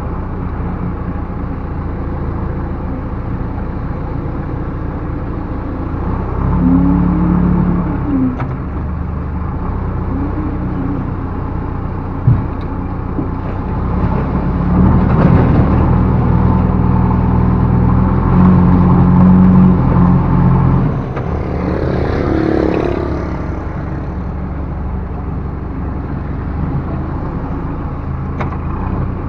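Backhoe loader's diesel engine running steadily and revving up in several stretches as the machine works, loudest in the middle, with a single sharp knock about twelve seconds in.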